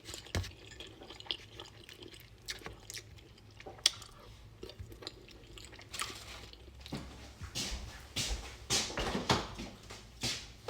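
A person chewing and biting into fried chicken, with scattered crunches and wet mouth clicks, the sharpest about four seconds in and the chewing busier near the end.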